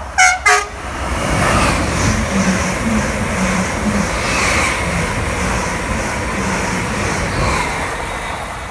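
Greater Anglia Class 745 electric multiple unit sounding its two-tone horn: two short notes, a higher one then a lower one. About a second in, the train follows with a steady rush of wheels and air as it runs through the station at speed.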